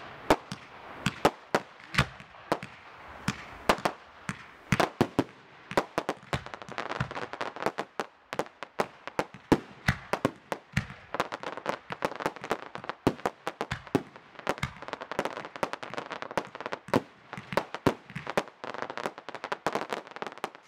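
Aerial fireworks firing and bursting in quick succession: a steady run of sharp bangs, several a second, that grows denser from about six seconds in.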